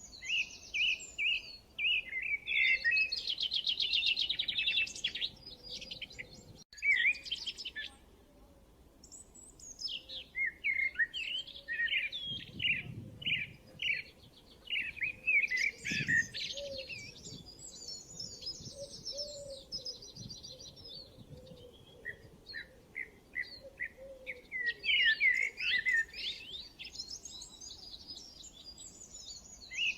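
Songbirds chirping and singing in several bouts of quick, high, repeated notes and trills, with short lulls between them.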